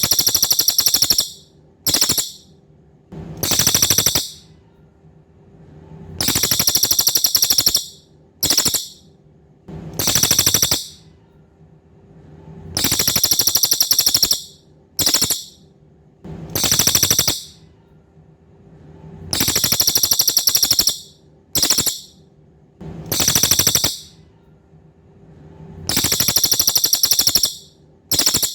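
Cililin songbird singing a high, rapid buzzing trill phrase that repeats about every six and a half seconds: a long trill that swells in, a short burst, then a medium-length trill. A faint steady low hum sits underneath.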